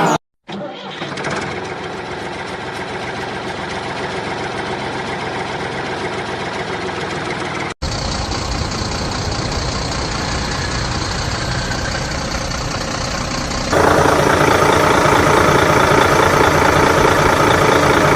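Vehicle engine idling steadily, in three spliced stretches that cut over abruptly; the last stretch, from about fourteen seconds in, is louder.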